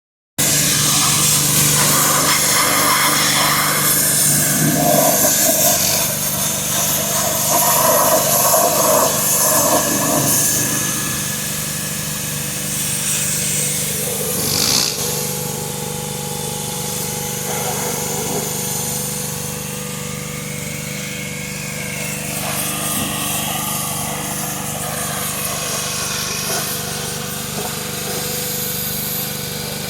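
A small engine running steadily with a constant hum and a hiss of noise over it, louder through the first ten seconds and then settling.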